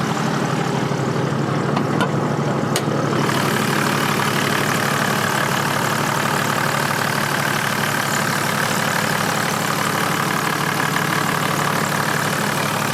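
Toyota 1HD-T 4.2-litre inline-six turbo diesel idling steadily. Two sharp clicks come about two to three seconds in, and the engine then sounds brighter as the hood is opened.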